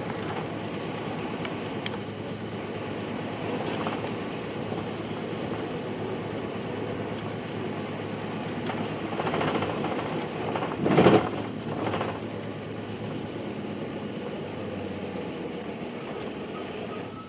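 Nissan Diesel Space Runner RM city bus's FE6 diesel engine running steadily under way, heard from inside the bus. A brief loud burst of noise stands out about eleven seconds in.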